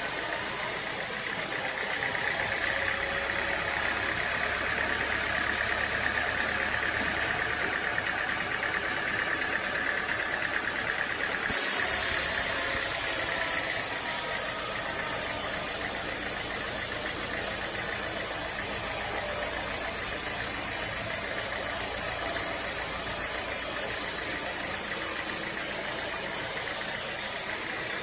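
Sawmill machinery running steadily, with an engine running under it. About eleven seconds in, the sound turns suddenly louder and hissier, and stays that way until shortly before the end.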